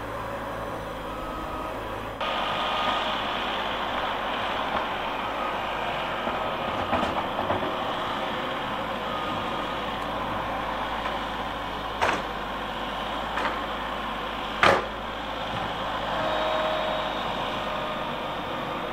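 Heavy vehicle engine running steadily, getting louder about two seconds in, with two sharp knocks in the second half, the second one the loudest.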